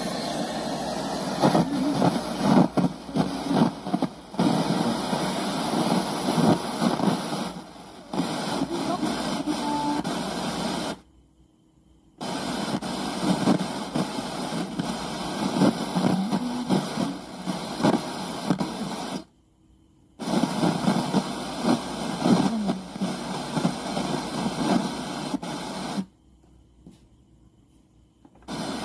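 Rough, noisy output from the Sony CFS-515S radio cassette's speaker, surging unevenly, with no clear voice or music in it. It cuts out to near silence three times: briefly about eleven seconds in, again about nineteen seconds in, and for about two seconds near the end.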